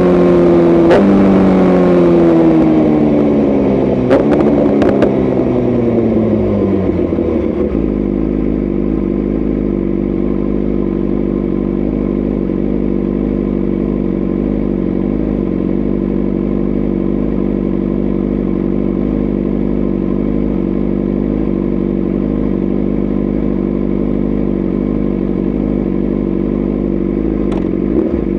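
BMW S1000RR's tuned inline-four engine slowing down through downshifts, its pitch falling in steps over the first seven seconds with a few sharp cracks around four to five seconds in, then settling into a steady idle.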